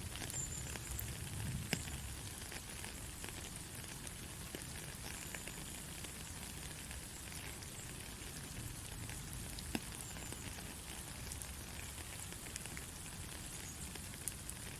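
Gentle steady rain: an even hiss with scattered single drops ticking, a few louder ones about two seconds in, near ten seconds and near the end.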